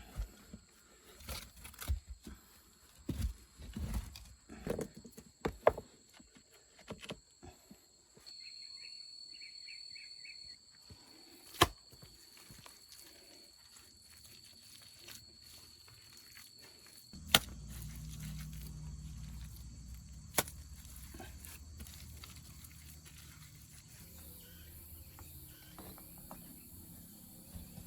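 Irregular knocks and clicks of things being handled, with a brief steady high-pitched tone about eight seconds in, then a few sharp clicks and a steady low rumble from about seventeen seconds in.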